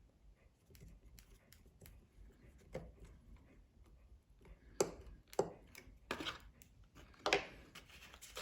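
Small, irregular clicks and taps of tiny tools and parts being handled while reassembling a smartphone, with a few louder taps in the second half and a brief scrape.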